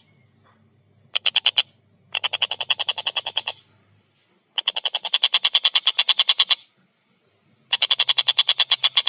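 Tengkek buto kingfisher giving its rattling 'kek-kek-kek' call: four bursts of rapid, evenly spaced sharp notes, about ten a second. The first burst is brief, the later ones last one to three seconds, with short pauses between.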